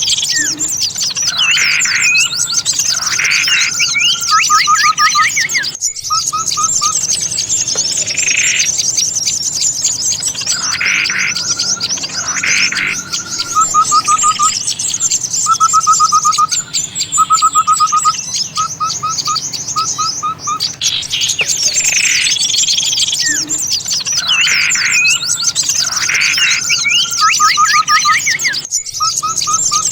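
Bird-lure recording of many small songbirds calling at once: a constant high chatter of chirps under repeated whistled phrases and quick trills. The mix loops about every 20 seconds, with brief cut-outs about six seconds in and near the end.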